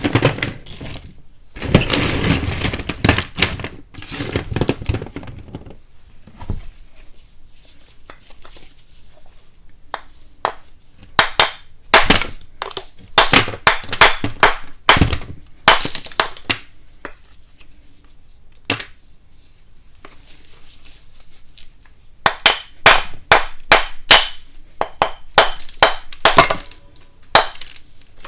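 Chunks of chalk being cracked and broken apart: sharp snaps and crumbling. A dense crumbling run comes a couple of seconds in, then clusters of quick snaps in the middle and again near the end, with quieter pauses between.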